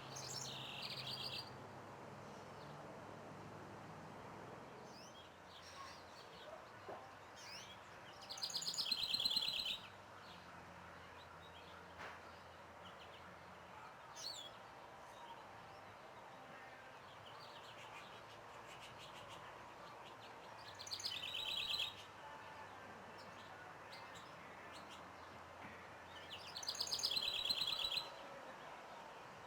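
A songbird singing a short, fast trilled song phrase about every six to twelve seconds, four times in all, with a few brief single call notes between phrases.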